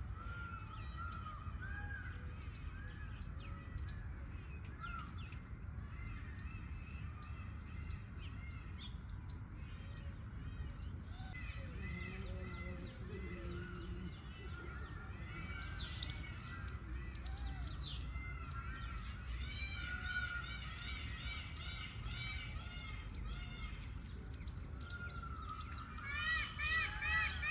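Birds chirping: many short rising-and-falling notes throughout, becoming a louder, quicker run of repeated notes near the end, over a steady low rumble.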